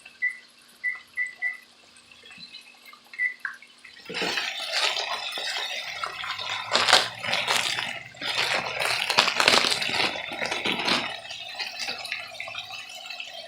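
A few short, high electronic beeps from an oven's control keypad as the temperature is set. From about four seconds in comes a longer stretch of loud, crackly, splashy noise.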